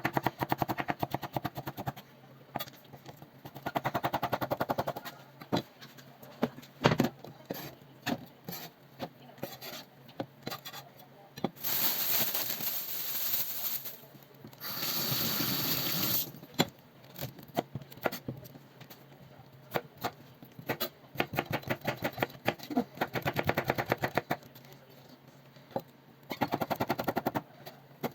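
Knife chopping vegetables on a cutting board, in quick runs of rapid, even strokes, with pauses between. About halfway through there are two spells of steady rushing noise of a few seconds each.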